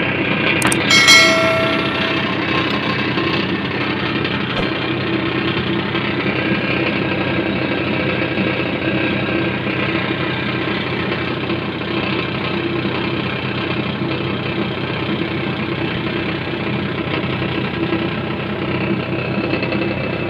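Hyundai excavator's diesel engine idling steadily. About a second in, a short metallic clink rings out over it.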